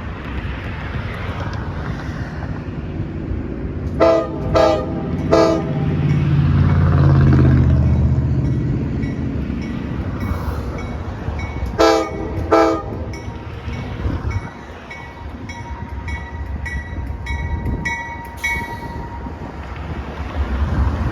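Freight locomotive air horn sounding three short blasts, the signal for backing up, and several seconds later two short blasts, the signal to proceed, over the low rumble of the diesel engine, which swells after the first blasts. Near the end comes a run of short, quick ringing tones.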